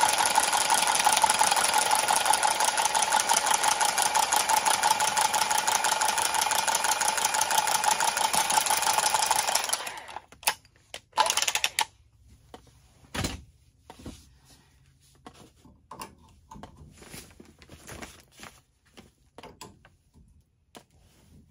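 Milwaukee cordless copper tubing cutter running steadily for about ten seconds as it cuts through 3/4-inch copper pipe, then stopping, with a brief second run a moment later. After that, scattered light clicks and knocks.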